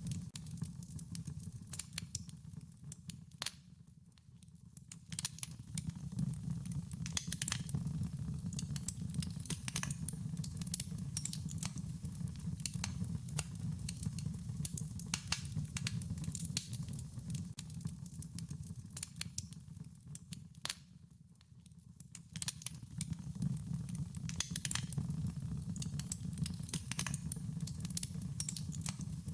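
Wood fire crackling with frequent sharp pops over a steady low rumble. The crackling thins out briefly about four seconds in and again about twenty-one seconds in.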